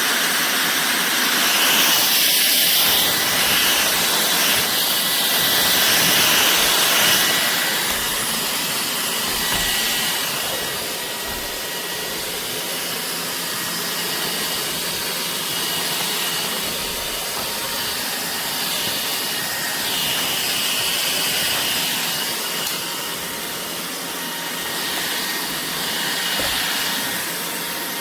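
Ultenic U16 Flex cordless stick vacuum running: a steady whine over a rush of air, swelling and easing a few times as it is worked.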